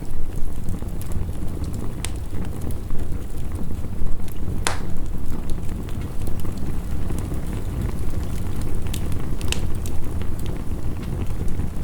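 Heavy rain making a steady low rumble, with a wood fire crackling: a few sharp pops, the loudest about five seconds in and a cluster near the end.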